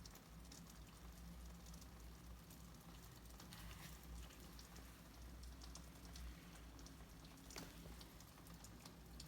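Near silence: a faint low hum with scattered soft clicks and crackle.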